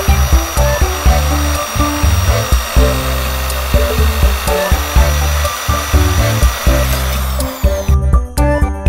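Corded electric drill boring into the steel sheet-metal frame of an exhaust fan. It runs steadily and stops about eight seconds in. Background music with a bass line plays throughout.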